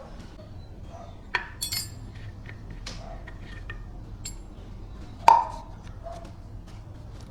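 Metal parts and hand tools clinking and knocking together as they are handled, with a bright ringing clink a little over a second in and a louder metallic knock about five seconds in.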